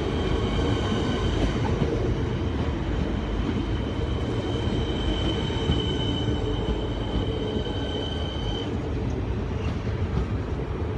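Train moving through the station: a steady rumble of wheels on rail with a steady high-pitched squeal that stops about eight and a half seconds in.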